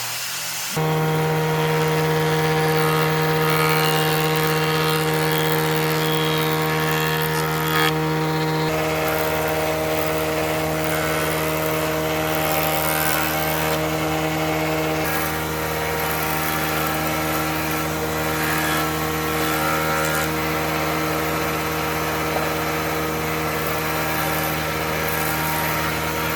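A woodworking machine's motor starts up about a second in and runs steadily at one pitch, its tone shifting slightly about nine seconds in.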